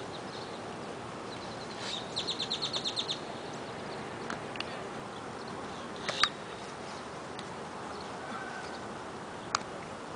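A bird trills a fast run of about ten high chirps two to three seconds in, with a few single chirps around it, over steady outdoor background noise. A sharp knock comes about six seconds in and a fainter one near the end.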